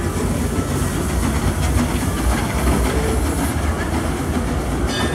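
Steam train rolling past, a steady low rumble of the cars running on the rails.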